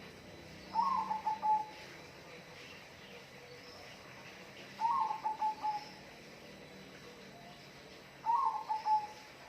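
A dove cooing: three short phrases, about four seconds apart. Each opens on a higher note and runs into a quick string of falling notes.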